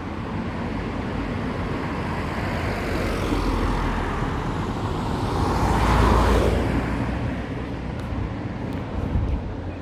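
A road vehicle passing by: a rush of tyre and engine noise with a low rumble that builds to its loudest about six seconds in, then fades away.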